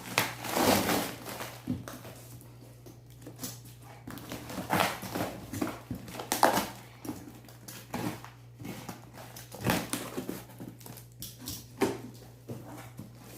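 Handling noises from unpacking a boxed 12-inch car subwoofer: irregular rustles, scrapes and squeaks of the packaging as the speaker is worked out of the box, over a steady low hum.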